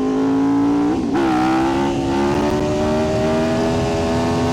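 Aprilia RSV4's V4 engine pulling under throttle: the note changes abruptly about a second in, then climbs slowly and steadily in pitch as the bike accelerates, over a steady rush of wind noise.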